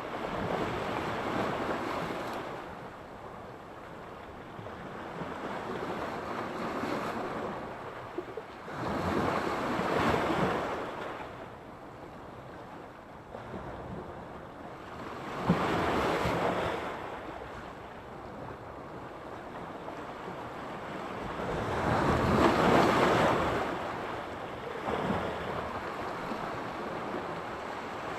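Sea surf: waves rolling in and breaking on the shore, each one a swelling wash that fades again, about every six to seven seconds, the loudest one late on.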